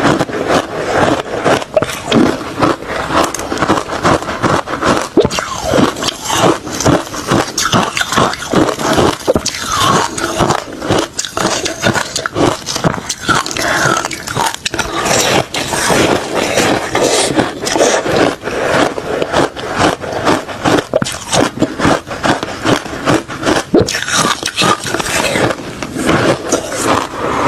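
A person biting and chewing refrozen crushed ice mixed with shaved ice: a dense, continuous run of crunches and sharp cracks.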